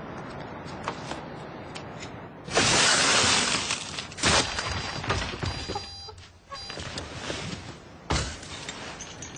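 A loud crash of shattering glass about two and a half seconds in, lasting about a second, followed by a sharp knock and, later, a dull thud.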